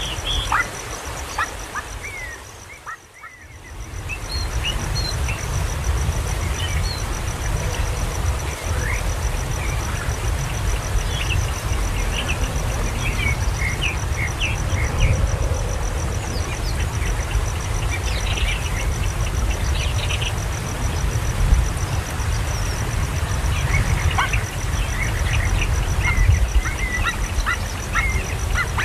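Birds giving many short, high chirps scattered throughout, over a steady low rumble and a faint constant high whine.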